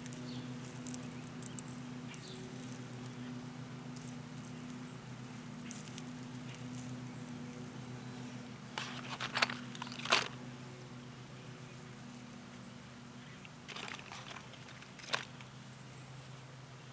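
Rustling and crackling of plant material being handled, loudest in clusters about nine to ten seconds in and again around fourteen to fifteen seconds, over a steady low hum.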